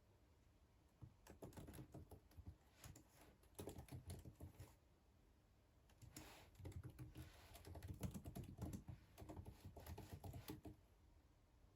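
Soft typing on a computer keyboard, in two quick runs of keystrokes with a short pause between them about halfway through.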